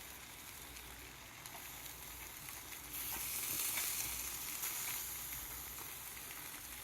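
Meat sizzling on a grill over a fire pit: a steady hiss that swells louder about three seconds in, then slowly eases.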